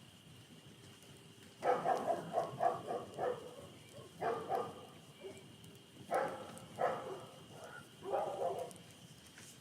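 A dog barking in four bouts of quick barks, over a faint steady high tone.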